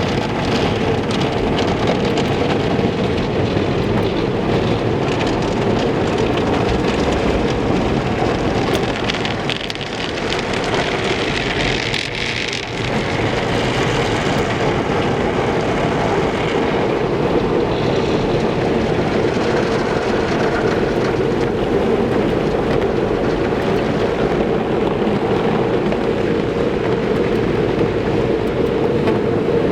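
Steady rushing noise of an automatic car wash at work: water spray and wash machinery running on a car, dipping briefly twice around ten and twelve seconds in.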